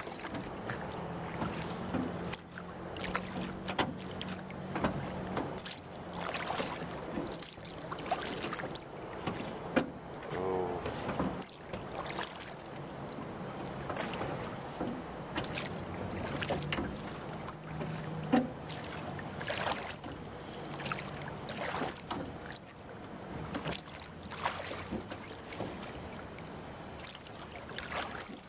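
Small boat moving across floodwater: water splashing and lapping at the hull with scattered knocks and clunks, and a low steady hum that comes and goes.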